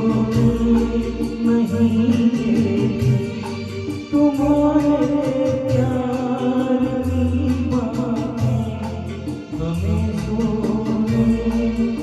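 A song: a voice singing held, melodic lines over instrumental backing with a deep bass.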